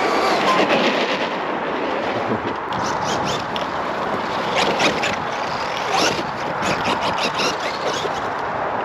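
Radio-controlled monster truck driving over a dirt track: a steady rush of tyres and motor with many quick clicks and knocks, busiest in the second half.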